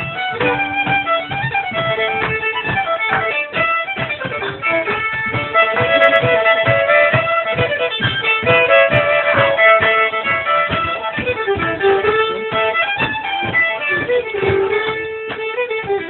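Fiddle playing an old-time mountain tune without singing: quick bowed notes over a steady beat, with a few longer held notes in the middle.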